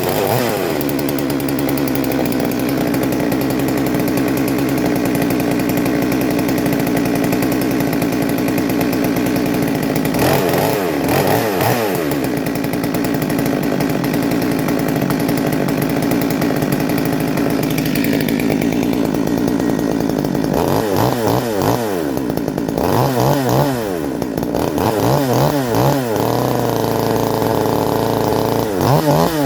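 Two-stroke chainsaw running just after a cold start with the choke set, holding a steady fast idle, revved up and back down about ten seconds in, then blipped several times in quick succession through the last third.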